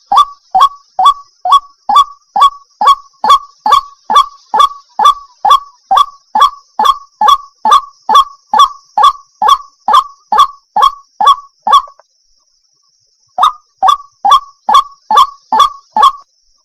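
A waterhen calling: a fast run of short, loud, identical notes, about two a second, each dipping slightly in pitch. The run breaks off for a second or so about twelve seconds in, then starts again. A faint steady high hiss runs underneath.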